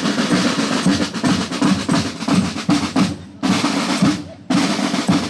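Marching drum band playing a cadence: snare drums rattling and rolling over bass drum beats. The drumming drops off for about a second midway, then starts again.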